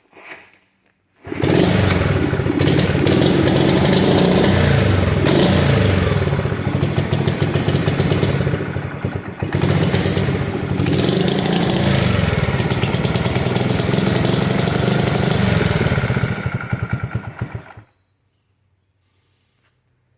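1973 Honda SL70 minibike's small single-cylinder four-stroke engine catching about a second in, then running and being revved up and down several times. It shuts off abruptly a couple of seconds before the end.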